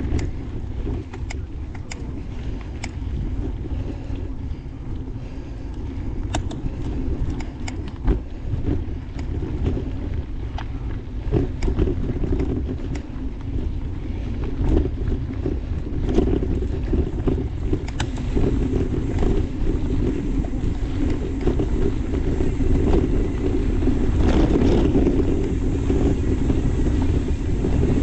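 Mountain bike rolling along a dirt trail: wind rushing over the microphone and tyre noise, with scattered clicks and rattles from the bike.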